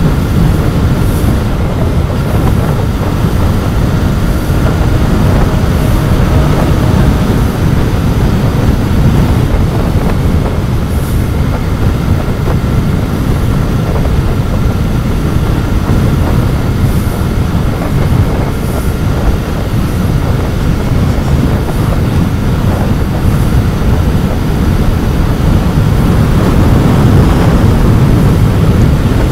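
Royal Enfield Continental GT 650's 648 cc parallel-twin engine on its stock exhaust, running steadily at road speed under the rider. It is heard from on the bike and grows a little louder near the end.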